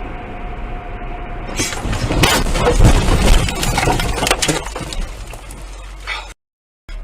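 A car running along, then a collision about a second and a half in: several seconds of crunching impacts and clattering with breaking glass, dying away before the sound cuts off abruptly.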